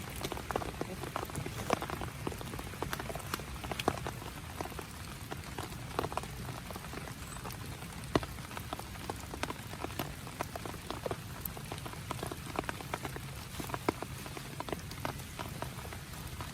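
Steady rain with heavy drops landing in irregular sharp taps, scattered several times a second.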